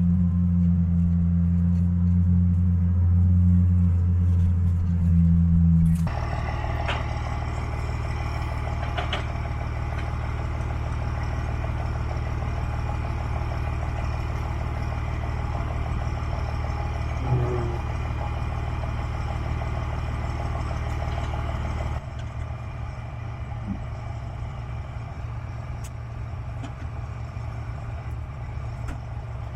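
Heavy diesel engine running steadily. The sound changes abruptly about six seconds in, from a loud low note to a brighter one, and drops quieter about 22 seconds in.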